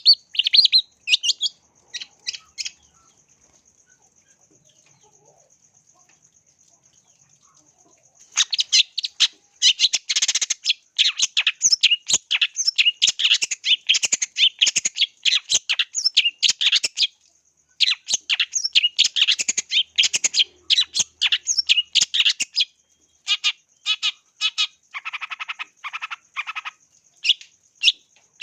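Long-tailed shrike (cendet) singing a rapid, chattering song in quick runs of high calls. The bird breaks off briefly about three seconds in and resumes around eight seconds in, singing almost without pause, with a lower-pitched run near the end. A faint steady high whine sits underneath.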